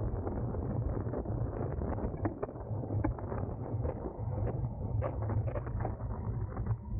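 Wind rushing over the microphone of a camera mounted on a racing bicycle at speed, with a steady low road rumble and scattered small clicks and rattles from the bike.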